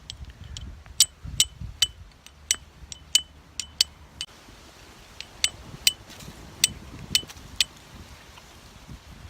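A Japanese fire steel (hi-uchi-gane) struck against flint to throw sparks onto char cloth: sharp, bright metallic clicks. There are two runs of strikes, about two a second, with a short pause between them.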